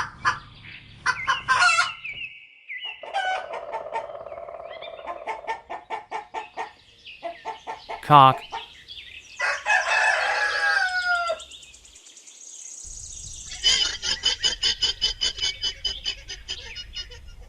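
Chickens clucking, then a rooster crowing once, about ten seconds in, with a long call that falls in pitch at the end. A fast run of clucks follows, about four a second.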